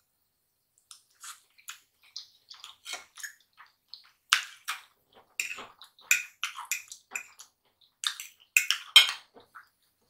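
Close-miked mouth sounds of eating fried chicken and mashed potatoes: chewing with irregular wet smacks and clicks, loudest about four seconds in and again near the end.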